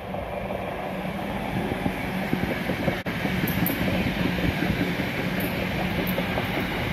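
Electric multiple-unit passenger train passing close by on welded track: a steady, growing rumble of wheels on rail with a low hum running under it. The sound breaks off briefly about three seconds in and picks up again at the same level.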